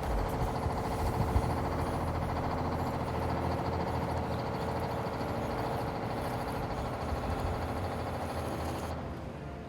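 A truck engine running steadily; the sound drops in level near the end.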